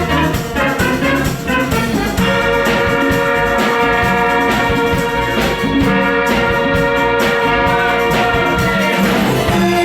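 Band rehearsal music: an instrumental passage with sustained brass-like chords over drums, without singing.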